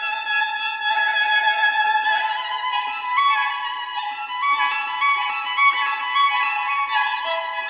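Background music led by a violin, playing a melody of held and moving notes.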